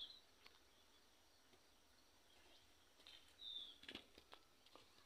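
Near silence with a bird chirping faintly: one short, high, slightly falling note about three and a half seconds in, and a few faint ticks.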